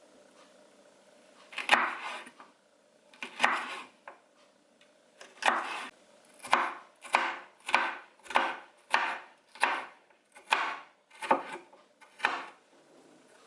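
Kitchen knife chopping on a cutting board: about a dozen separate chops, two slow ones first, then a steady run of strokes a little over half a second apart.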